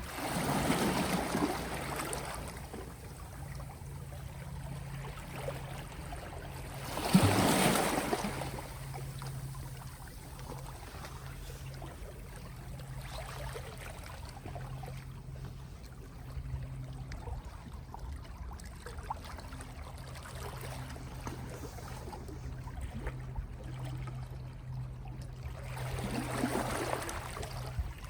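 Small, gentle sea waves washing onto the shore, with three swells: about a second in, a louder one about seven seconds in, and one near the end. A steady low hum runs underneath throughout.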